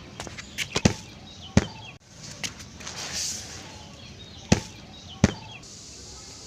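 Sharp knocks and clicks of objects being handled: a quick cluster of them in the first second, then single knocks spaced about a second or more apart.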